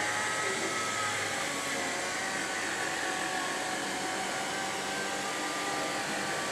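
A steady mechanical rushing noise, even throughout, with a few faint high tones over it.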